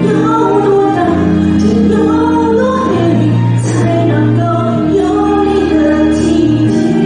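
A woman singing a slow pop ballad over instrumental accompaniment, her voice gliding between held notes above a steady bass line.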